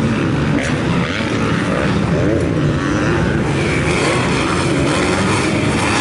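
Several motocross bikes running on the track at once, their engines revving up and down in overlapping pitches.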